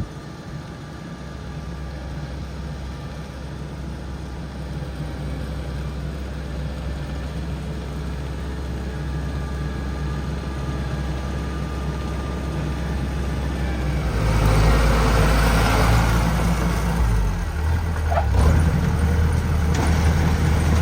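Rice combine harvester's engine running as the machine arrives at the field, growing steadily louder, with a sudden rise in loudness about two-thirds of the way through.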